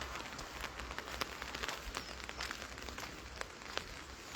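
Rain falling steadily: an even hiss dotted with the irregular ticks of single drops landing.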